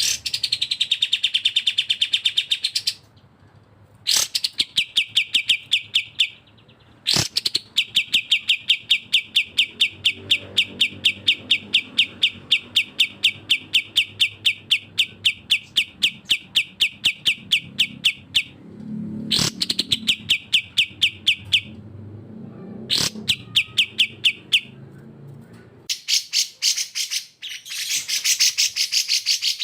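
Bulbul song from a cucak jenggot and kapas tembak tutoring recording: rapid trills of sharply repeated notes. One long unbroken trill runs about eleven seconds, set among shorter trills, and a denser, higher-pitched burst of notes comes near the end.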